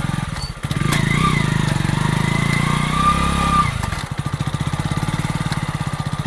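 Hero Splendor's single-cylinder four-stroke engine running with a steady pulse. It gets louder for about three seconds in the middle as the bike is ridden or revved, then settles back to a lower run.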